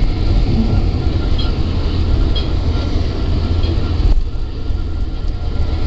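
Amtrak California Zephyr passenger train running, heard from aboard: a steady low rumble with a few faint ticks. The higher hiss drops away about four seconds in.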